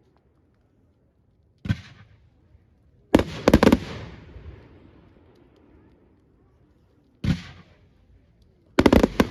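Fireworks display going off. There is a single bang, then a quick volley of several bangs, another single bang, and a second rapid volley near the end, each trailing off in echo.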